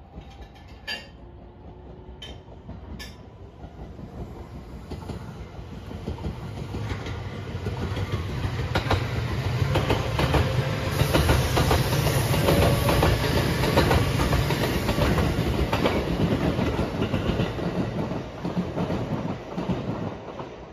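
JR West 227 series Urara electric multiple-unit train passing: it grows steadily louder as it approaches, its wheels clacking over the rail joints as it goes by, then fades away near the end.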